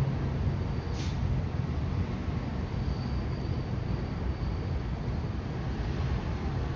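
Steady low rumble of outdoor ambience, with a single short sharp click about a second in and a faint high whine for a second or two around the middle.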